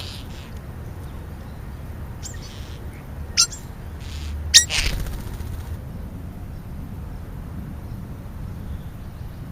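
A few short, sharp bird calls, the loudest about four and a half seconds in, over a steady low rumble.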